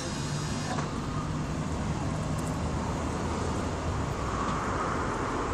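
Steady road traffic noise, with a vehicle passing more loudly from about four seconds in.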